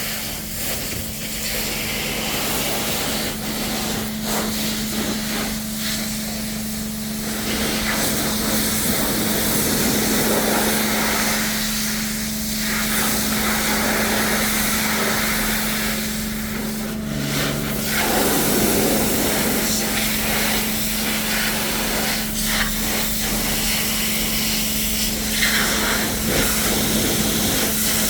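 Pressure washer spraying water onto a muddy truck, a hissing spray that breaks off briefly about every five seconds as the trigger is released, over a steady low hum.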